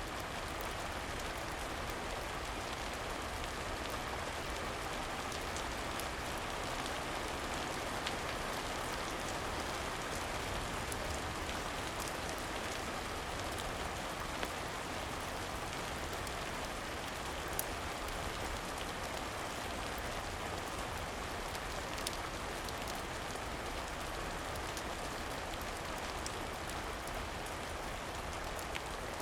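Steady rain falling, with a few isolated sharp pops from a crackling fire scattered through it.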